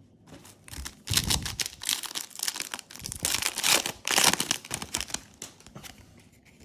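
A Yu-Gi-Oh booster pack's foil wrapper being crinkled and torn open: a run of sharp crackling rustles lasting several seconds, loudest just past the middle.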